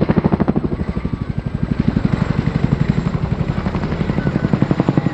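Boeing Chinook HC.6 tandem-rotor helicopter flying past, its twin rotors making a rapid, even, rhythmic blade slap. The slap eases somewhat about a second in and grows louder again near the end.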